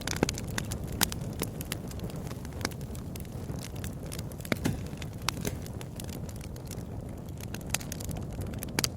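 Wood bonfire crackling, with irregular sharp pops and snaps over a steady low rumble; a few louder pops stand out, one about a second in and another around the middle.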